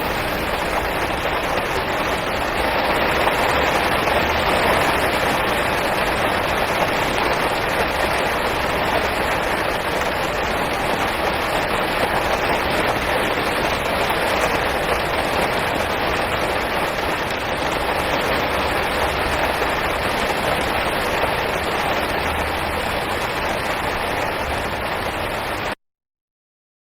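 Steady rain falling, a dense, even hiss of drops that cuts off suddenly to dead silence near the end.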